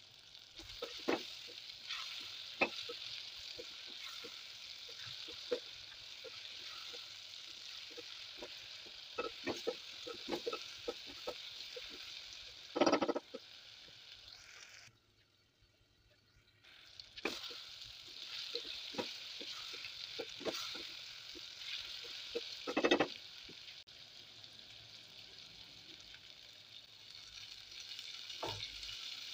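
Bottle gourd pieces in masala sizzling in an open pot, with scattered clicks and scrapes of stirring and two louder scrapes, about halfway through and again later. The sizzle stops for about two seconds in the middle, then resumes.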